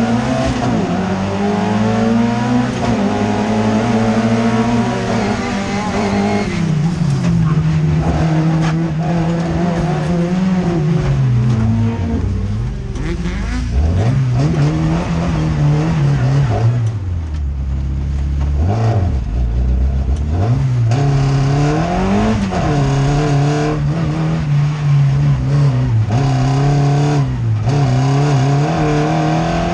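A Fiat Jokkis race car's engine heard from inside its cabin at racing speed, the revs rising and falling over and over as the driver accelerates and lifts off, dropping low twice around the middle.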